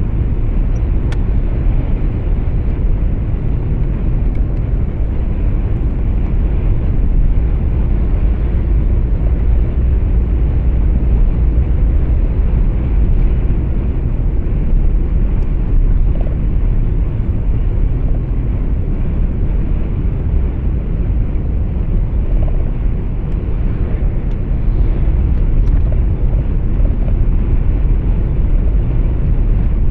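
Steady low rumble of a truck moving along the road, heard from inside the cab: engine and tyre noise.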